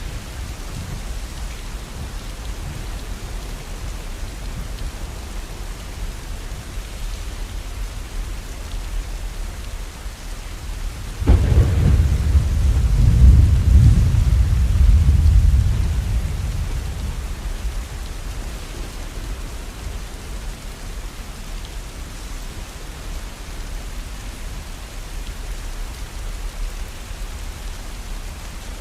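Steady rain, with a roll of thunder that breaks in suddenly about eleven seconds in, rumbles deep and low for about five seconds and fades away.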